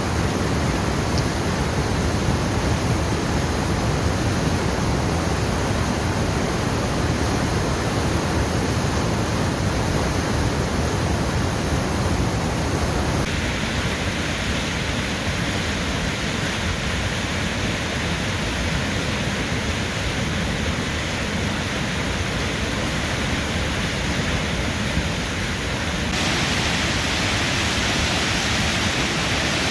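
Štrbački buk, a waterfall on the Una river, with water rushing over the falls in a steady, dense noise. Its sound shifts abruptly twice, turning brighter and hissier about halfway through and again near the end.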